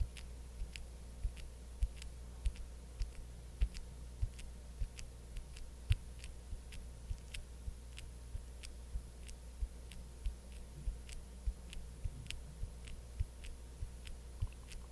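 Light, crisp tapping or clicking made by hand as an ASMR trigger, about two taps a second in an unhurried, slightly uneven rhythm, over a faint steady hum.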